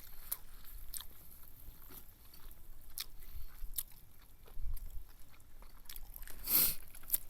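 Wood fire crackling in a small fire stand, with scattered sharp pops and a louder, longer crackle near the end.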